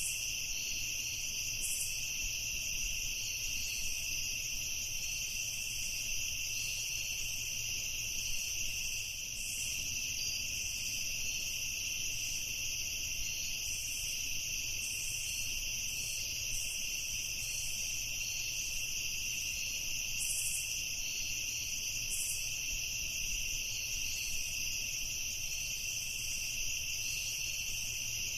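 Night chorus of crickets trilling steadily, two high unbroken layers of chirring, over a faint low rumble.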